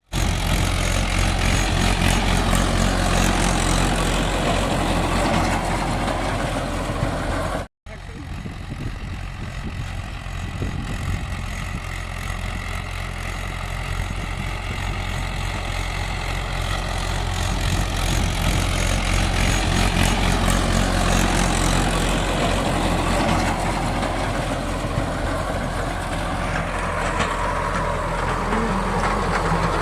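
Mahindra SP Plus tractor's diesel engine running steadily, with the sound dropping out briefly at a cut about eight seconds in.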